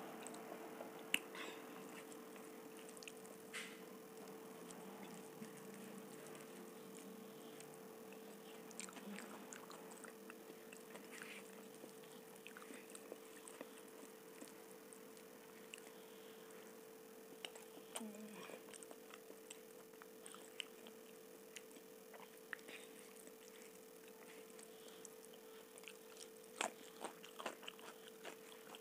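Soft chewing and mouth sounds of someone eating masala khichdi by hand, with scattered faint clicks and a few sharper ones near the end, over a steady faint hum.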